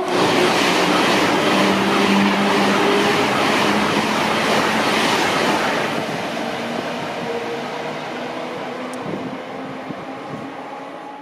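A train running through the station, its rumble and hum loud at first and then fading steadily as it moves away.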